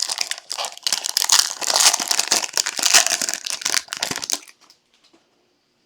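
Plastic wrapping on a box of trading cards crinkling and tearing as it is pulled open, a dense crackle that stops abruptly about four and a half seconds in.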